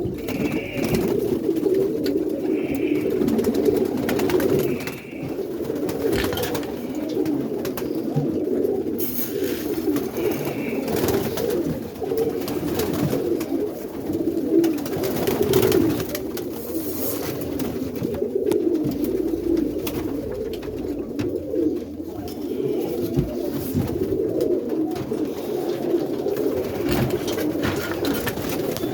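Many roller pigeons cooing together in an enclosed loft, a dense unbroken chorus. A few short high squeaks come near the start, and scattered clicks and rustles run through it.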